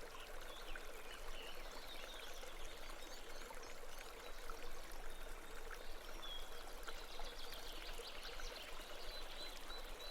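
Steady babbling of a stream or brook: a soft, even rush of running water with small trickling splashes, and a few faint high chirps now and then.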